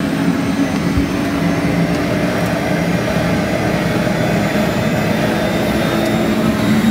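Helicopter turbine engine and rotor running with a loud, steady drone; one of its tones shifts in pitch about six seconds in.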